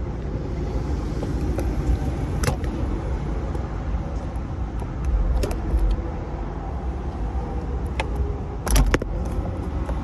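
Handling noise from a phone being fumbled onto a cheap phone stand: a few sharp clicks and knocks, the loudest near the end, over a steady low rumble.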